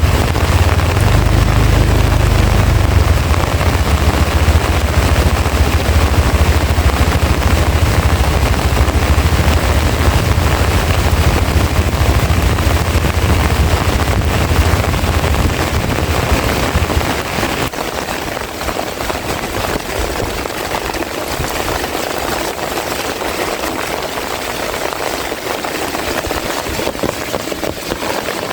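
Heavy rain falling steadily. A deep rumble sits under it for the first two-thirds and dies away about 17 seconds in.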